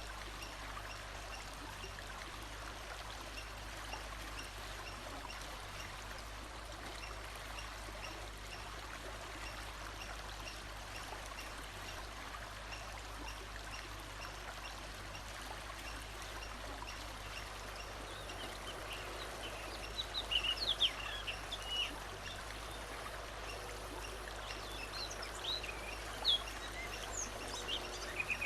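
Steady rush of flowing water, like a stream. About two-thirds of the way through, and again near the end, birds break in with short, quick chirps.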